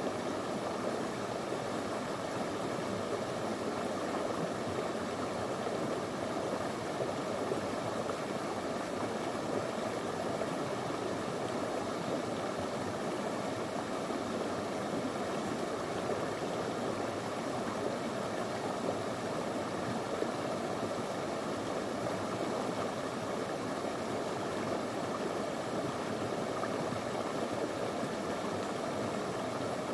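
Small stream of clear water flowing and burbling over stones, a steady even rush with no breaks.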